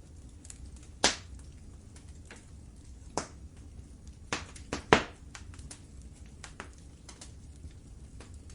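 Wood fire crackling in a fireplace: a handful of sharp pops and snaps, the loudest about a second in and near the middle, over a low steady rumble of the burning logs.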